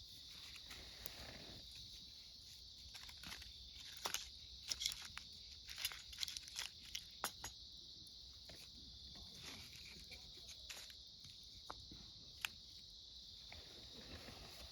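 Wood campfire crackling with sharp pops, thickest between about four and eight seconds in, over a steady high chirring of autumn insects.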